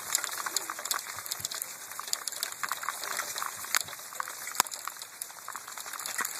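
Hailstones pelting down, a dense crackle of many small impacts, with one sharper, louder hit about four and a half seconds in.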